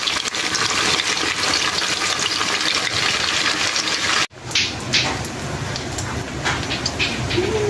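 Chicken necks deep-frying in hot oil: a dense, steady sizzle that cuts off abruptly about four seconds in. After that, a quieter stretch with a low hum and scattered light clicks.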